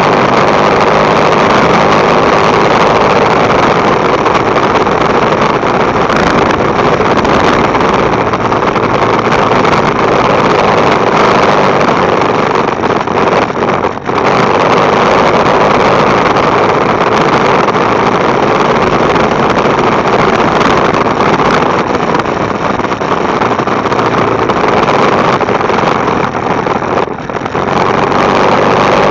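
Motorcycle on the move, recorded by a camera mounted on the bike: a loud, steady rush of wind on the microphone mixed with engine and road noise, easing briefly about halfway through and again near the end.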